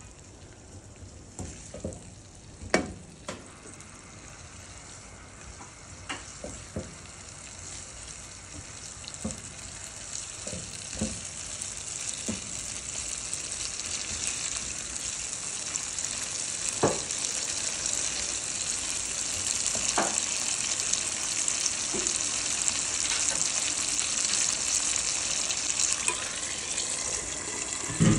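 Chicken pieces frying in oil and tomato in a nonstick wok, the sizzle growing steadily louder, with scattered knocks and scrapes of a wooden spoon against the pan as it is stirred. Right at the end, a sharp metal clank as an aluminium lid is set on the pan.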